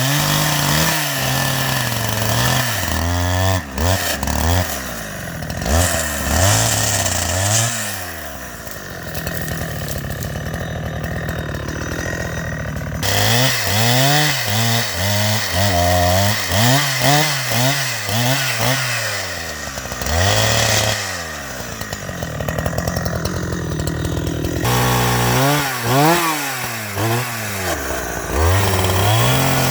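Two-stroke chainsaw cutting wood, its engine revving up and dropping back again and again, about once a second. The sound jumps abruptly twice.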